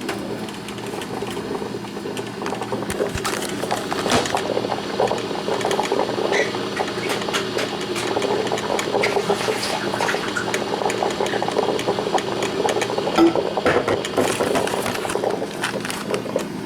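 Black & Decker thermal carafe drip coffee maker brewing, its heater bubbling and gurgling steadily with irregular small pops and sputters.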